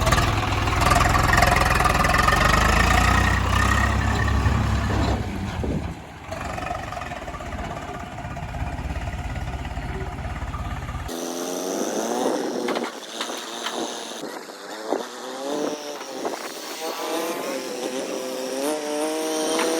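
Farm tractor engine running, its pitch shifting as it drives. About eleven seconds in, the deep rumble cuts off abruptly, leaving a higher sound whose pitch wavers up and down.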